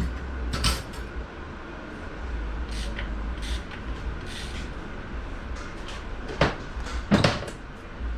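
Workshop handling noises: a series of sharp knocks and clinks, about half a dozen, as parts are picked up and set down while a loose part is searched for, the loudest two near the end, over a low steady hum.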